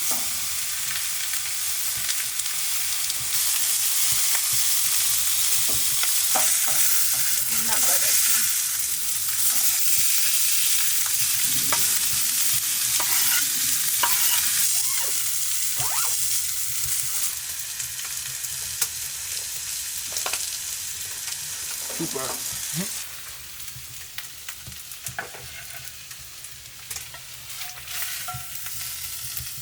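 Food sizzling and frying in a hot pan, a steady hiss broken by scattered clicks and scrapes. The sizzle eases off a little over twenty seconds in.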